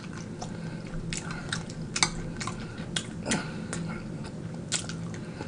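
Close-miked chewing of fried chicken wings: scattered crunches and wet mouth clicks.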